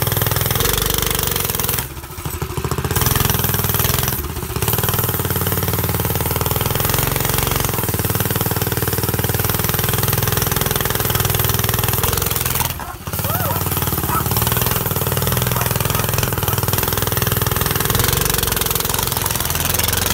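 Go-kart engine running hard through a motorcycle exhaust, a loud rapid rumbling, with short drops in the sound about two, four and thirteen seconds in.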